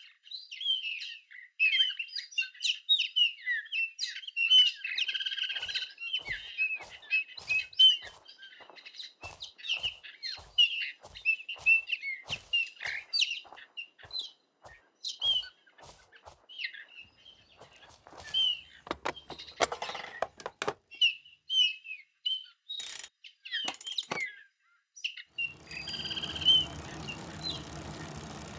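Small birds chirping and calling in quick, overlapping phrases, with a run of sharp clicks among them. Near the end the chirping fades and a steady noise comes in.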